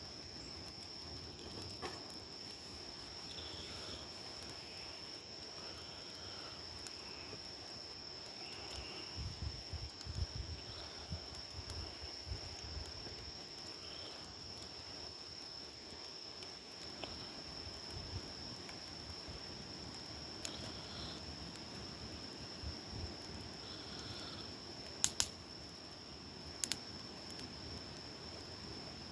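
Wood campfire burning, with a couple of sharp pops near the end, over a steady high-pitched insect chorus.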